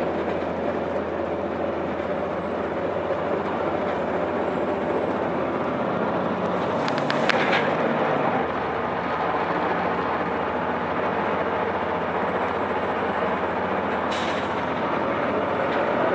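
Cummins ISC inline-six diesel of a 2002 Blue Bird 40 ft transit bus running steadily, with two hisses of air from the air brakes, one about seven seconds in and one near the end.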